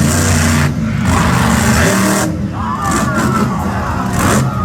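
Monster truck engine revving hard, its pitch rising and falling in repeated surges.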